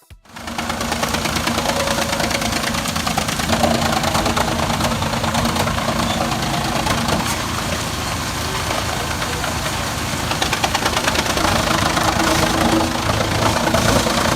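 Wood chipper driven by a diesel tractor, running steadily: a loud, continuous mechanical din with a steady engine hum underneath.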